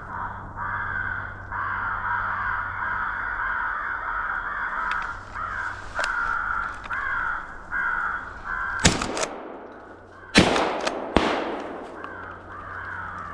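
Crows cawing in a steady run of repeated calls, then three shotgun shots about nine, ten and a half and eleven seconds in.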